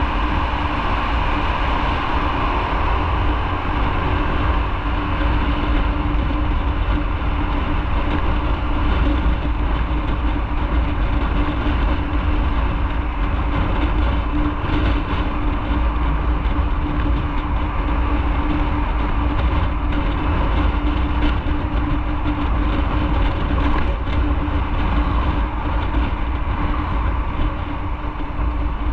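Motorcycle riding at a steady cruising speed: a constant engine drone mixed with wind and road rumble.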